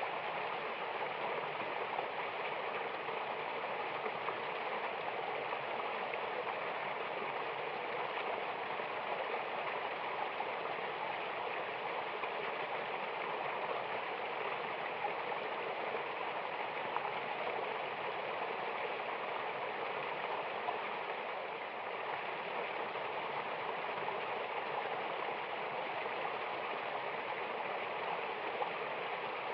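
Mountain waterfall and stream running: a steady, even rush of falling and flowing water.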